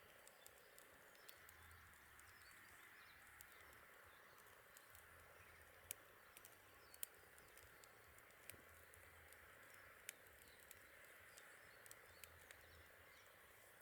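Campfire crackling faintly: irregular sharp snaps and pops over a steady soft hiss.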